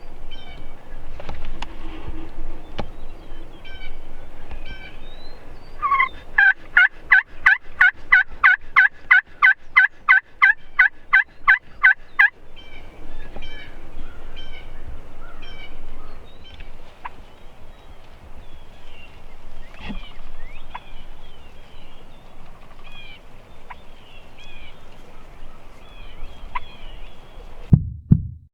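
Turkey yelping: a loud run of about two dozen evenly spaced notes, about four a second, lasting some six seconds, with faint short bird chirps before and after. A low thump just before the end.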